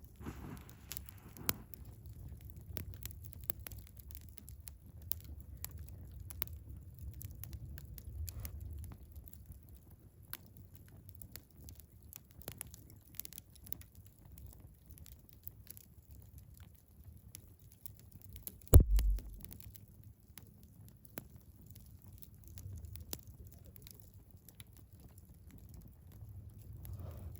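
Wood fire burning in a Picogrill 398 fire pit, crackling with scattered sharp pops over a low rumble. About nineteen seconds in comes one much louder knock with a deep thud.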